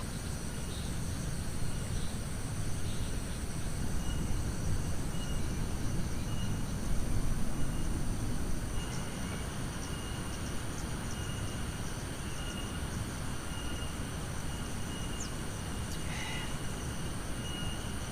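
Strong wind and rain, the wind rumbling low on the microphone and gusting louder about a third of the way in.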